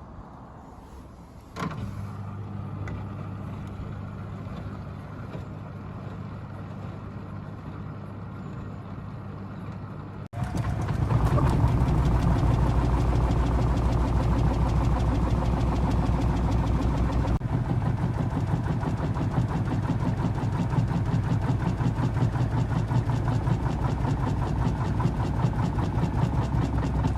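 Beko washing machine running: a click about a second and a half in, then a steady motor or pump hum, which turns much louder about ten seconds in and stays steady.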